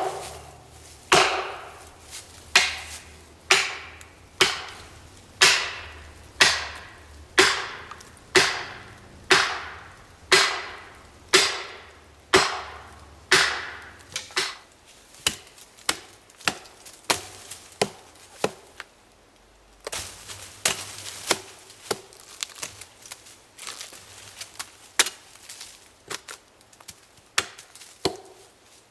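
Heavy blows struck into wood, about one a second, typical of chopping or driving a felling wedge. After about 14 s they become lighter and more irregular.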